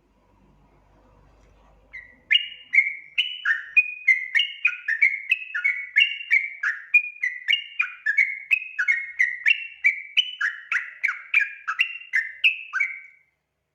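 Yellow-vented bulbul (trucukan) song: a fast, bubbly run of short whistled notes, each falling in pitch. It starts about two seconds in and stops shortly before the end.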